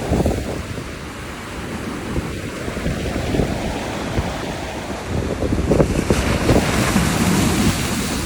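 Stormy sea surf breaking, with strong wind buffeting the microphone; the wash of the waves grows louder and hissier over the last few seconds.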